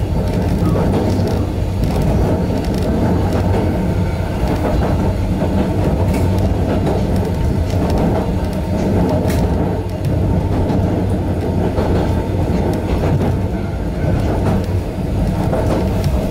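A 260 series narrow-gauge electric train running along the line, heard from inside the driver's cab: a steady drone of motors and wheels on rail, with a few sharp clicks.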